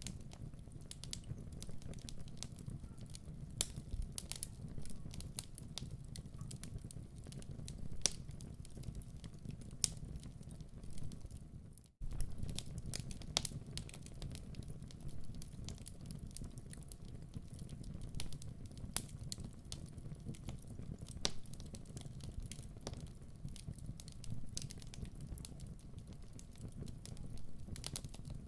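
Wood fire crackling in a fireplace: a steady low rumble of burning logs with scattered pops and snaps. The sound cuts out for an instant about twelve seconds in.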